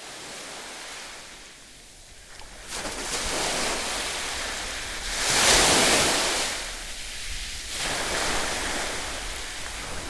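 Heavy surf from a big typhoon swell: waves breaking and washing, building to a loud crash about halfway through.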